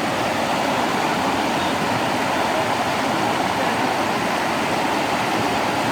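Steady rushing of water from a rain-swollen stream.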